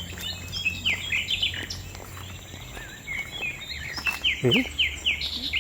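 Wild birds calling and chirping, with a quick run of repeated falling notes near the end. A short voice sound comes about four and a half seconds in.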